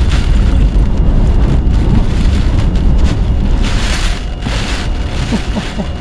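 Hurricane eyewall winds blasting with wind-driven rain: a heavy low rumble of wind on the microphone under a rushing hiss that swells and eases with the gusts, strongest around four seconds in.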